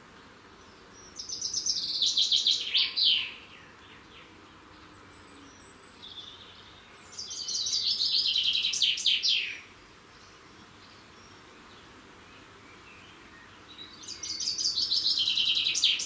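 A songbird singing the same song three times, about six seconds apart: each song is a quick run of high notes lasting about two seconds and ending in a few falling sweeps.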